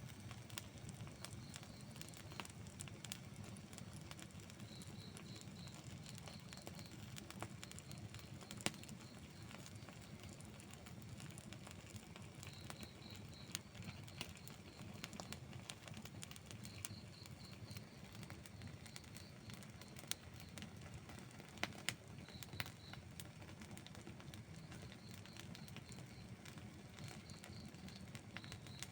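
Wood campfire burning with soft crackling and scattered sharp pops, over a steady low rush. A faint high chirp recurs every few seconds in short runs of three or four.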